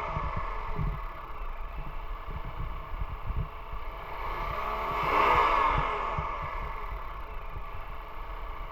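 2024 Mazda CX-50 2.5L four-cylinder engine idling. It is revved once about five seconds in and drops back to idle.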